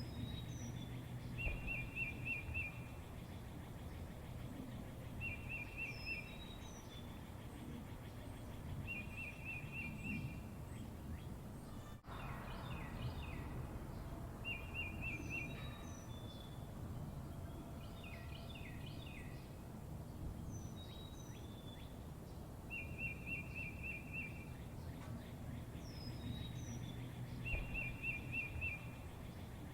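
Birds calling over a low, steady background noise. One bird repeats a short, fast trill every few seconds, with high down-slurred notes in between, and there is a livelier cluster of calls around the middle.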